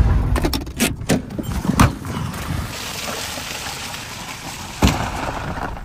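Vehicle noise broken by sharp knocks: a quick cluster in the first two seconds and one loud thump a little before the end, typical of cars hitting each other in a demolition derby.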